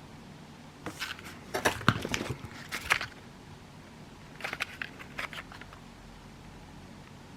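Fireworks and their packaging being handled on a table: irregular rustles, taps and clicks in two bursts, one from about a second in to three seconds, another around four and a half to five and a half seconds.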